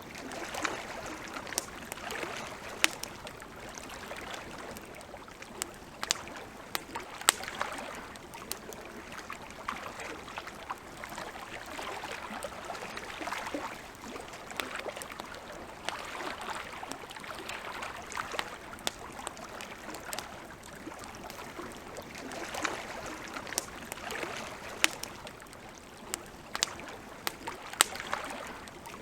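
Wood campfire crackling with sharp, irregular pops over a soft hiss, with lake water lapping in slow, gentle swells.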